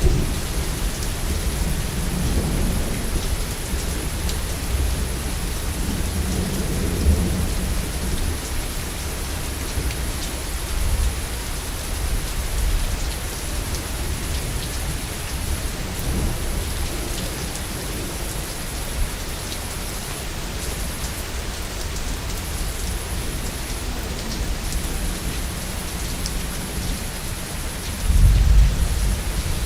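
Steady heavy rain with rolling thunder rumbling low, strongest in the first several seconds and swelling again near the end.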